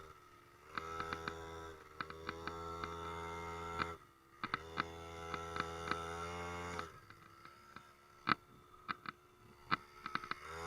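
Small single-cylinder engine of a 50cc kids' quad bike buzzing at a distance, three times revving up to a steady pitch under throttle and dropping away when the throttle is released. Sharp clicks and knocks are scattered throughout.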